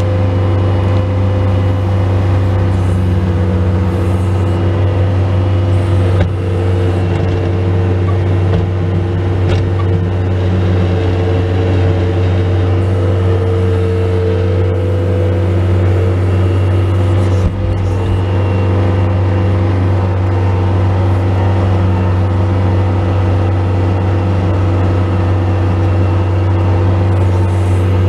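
Bobcat S185 skid steer's diesel engine running steadily at a constant speed while plowing snow, a loud low drone with a steady whine above it. A brief knock sounds twice, about six seconds in and again past the middle.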